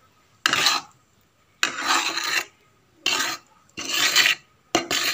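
A spoon scraping around a karahi, stirring red chilli, turmeric and salt in oil, in about five separate rasping strokes roughly a second apart.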